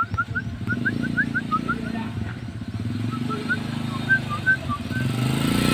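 A bird gives two runs of short rising chirps, several a second, over the steady drone of a motor vehicle's engine that grows louder near the end as it comes closer.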